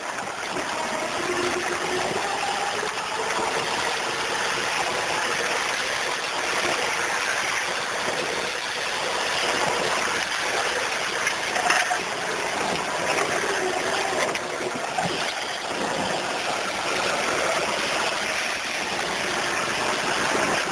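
A vehicle driving slowly over a rough track: a steady rushing noise, with a faint engine whine that rises and falls.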